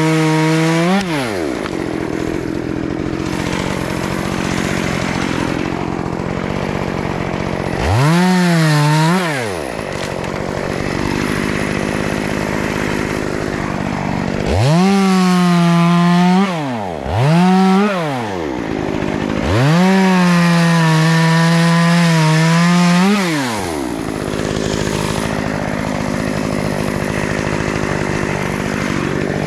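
Two-stroke chainsaw idling between cuts and revving up to full speed five times, the longest for about four seconds, as it cuts through small tree branches.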